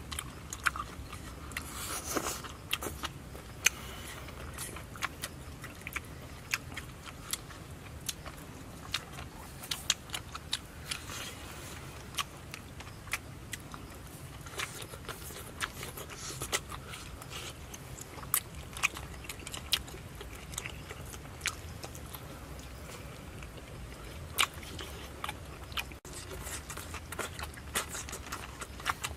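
Close-miked chewing and biting of fried crocodile meat: many irregular sharp crunches and mouth clicks over a low steady hum.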